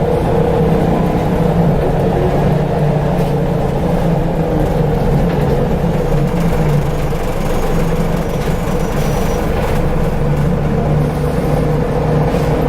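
Scania L94UB single-decker bus heard from inside while under way: a steady engine drone with the whine of its ZF automatic gearbox running through it.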